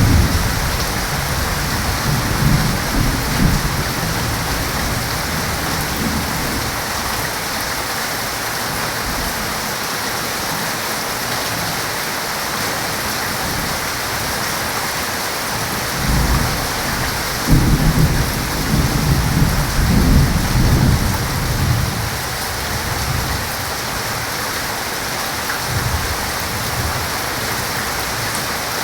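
Heavy rain falling steadily with thunder. Low rumbles swell in the first few seconds, and a longer, louder roll of thunder comes from about halfway through, followed by a short rumble near the end.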